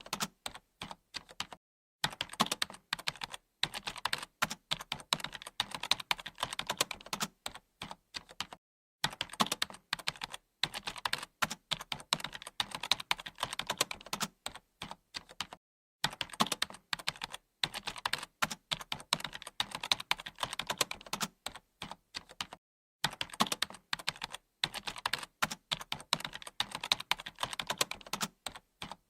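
Computer keyboard typing: fast, continuous keystroke clicks in runs, broken by short, silent pauses about every seven seconds.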